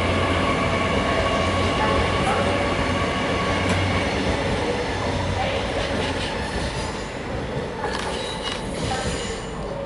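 Two coupled Hitachi Class 805 Evero bi-mode units departing the platform and running past, a steady rail running noise with a steady whine. It fades somewhat toward the end as the train draws away, with a few sharp clicks in the second half.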